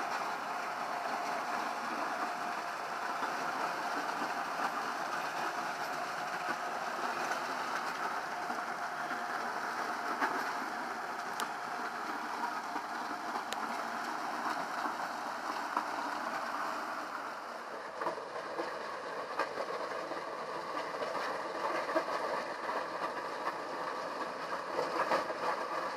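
Caterpillar 120M motor grader running steadily with a dense mechanical rumble, dipping slightly in level about two-thirds of the way through.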